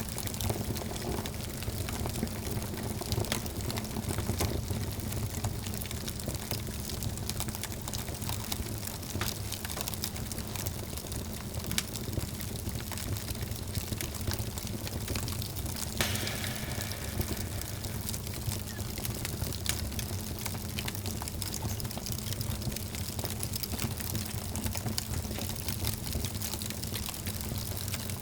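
Wood fire burning in a fireplace, crackling with frequent sharp pops over a steady low rumble. One louder pop comes about sixteen seconds in.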